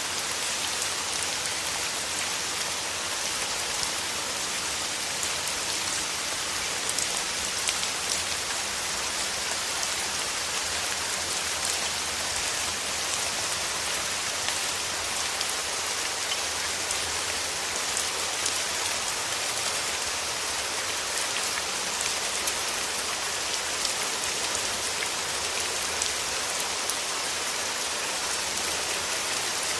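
Steady rain falling on rose petals, an even hiss of rain with many close single drops ticking through it.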